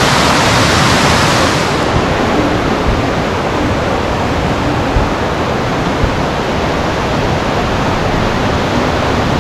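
Steady roar of rushing water from a mountain stream and waterfall.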